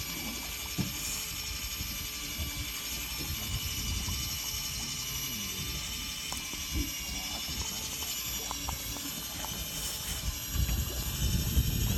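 Fishing boat's engine running steadily, with a high whine over a low rumble and a few faint knocks.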